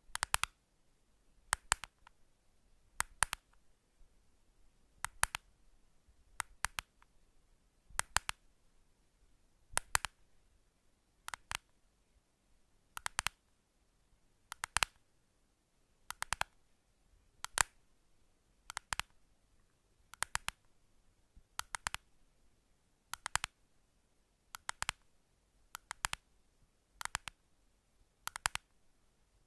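A slow, regular series of short crisp clicks, about one every second and a half, many of them doubled.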